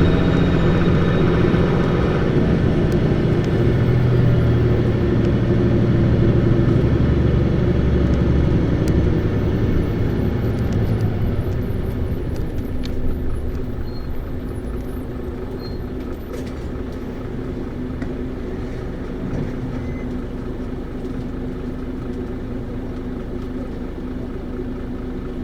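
Isuzu Erga route bus (PKG-LV234Q2) diesel engine heard from inside the cabin, working hard under acceleration. About halfway through it eases off into quieter, steady running with a level hum.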